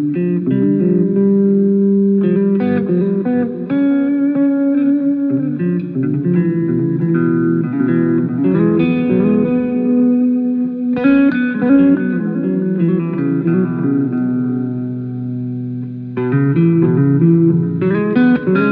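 A guitar being played: plucked notes and chords one after another, with one chord left to ring and fade about three-quarters of the way through before the playing picks up again.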